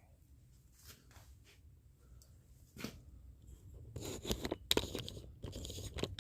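Wood fire crackling and popping in a wood stove, faint at first, then much louder and denser from about four seconds in. A single knock comes a little before.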